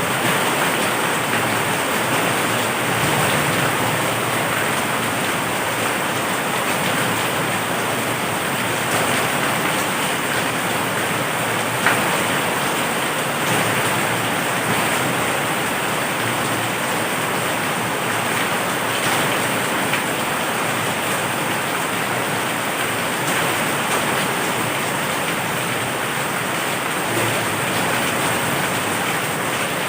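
Heavy rain falling steadily, a dense even hiss, with one sharp tick about twelve seconds in.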